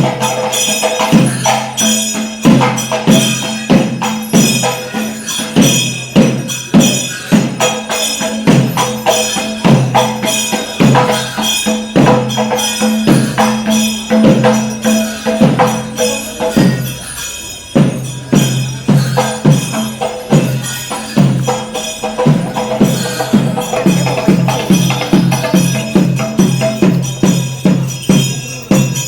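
Percussion-led music: dense drum strikes, several a second, with ringing metallic cymbal or bell tones and a steady held tone underneath, easing briefly just past the middle.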